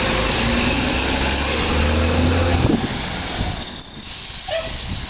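Recycling truck's engine running with a strong low drone that drops away a little past halfway, followed by a thin high-pitched squeal near the end.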